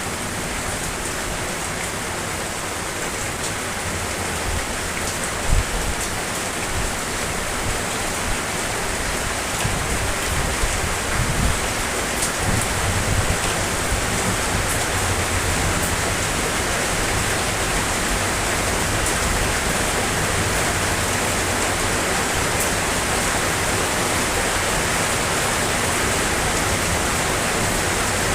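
Steady, heavy rainfall as a dense, even hiss, with a few brief low thumps about five seconds in and again around ten to thirteen seconds; it grows slightly louder partway through.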